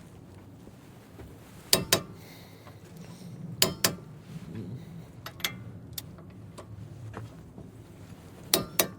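Sharp metallic clicks, several in pairs a fraction of a second apart, from a wrench tightening brake bolts to 130 ft-lb.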